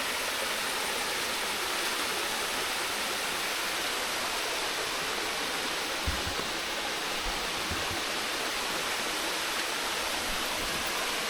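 Waterfall pouring steadily, an even rushing of falling water, with a soft low thump about six seconds in.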